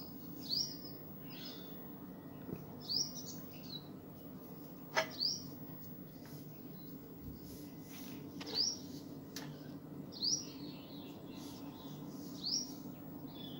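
A bird chirping, short rising notes repeated every one to two seconds, over a faint low steady hum. Two sharp clicks come in the middle stretch.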